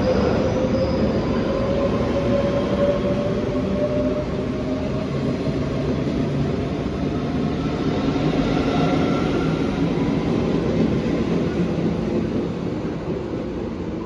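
Electric train pulling away, its motors whining in a slowly rising pitch over the steady running noise of the train, easing off near the end.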